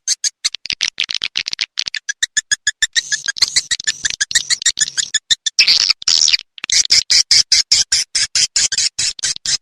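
Swiftlet calls: a fast, even train of sharp clicks, about eight a second, under high twittering chirps. This is the kind of swiftlet lure sound played at bird houses to draw the birds in.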